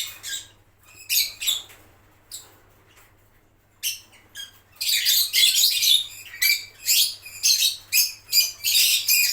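Lovebirds chirping: short, high-pitched calls, a few scattered at first, then coming in a quick, almost continuous run through the second half.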